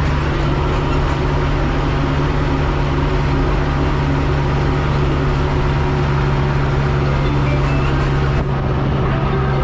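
A farm vehicle's diesel engine running at a steady speed, heard from inside the cab with a constant low hum.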